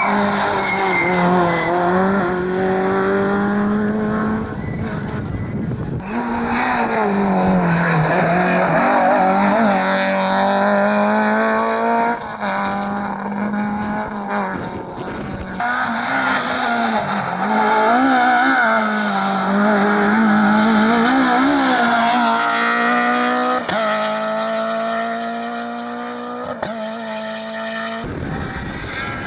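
Rally car engines revving hard and dropping in pitch at each gear change as the cars accelerate on a hillclimb stage, in several short clips cut together.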